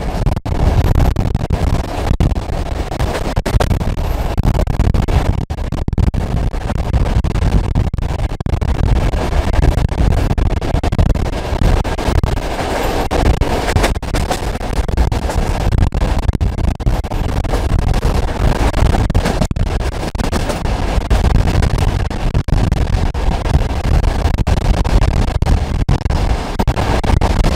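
Passenger train hauled by an SP42 diesel locomotive running along the line, heard from aboard: a loud, steady rumble of wheels on rails with a dense, irregular rattle, keeping an even pace throughout.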